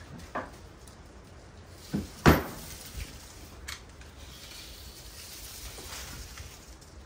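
Metal hand tools clinking and clanking: a handful of separate knocks, the loudest about two seconds in, while a 17 mm tool is being picked out.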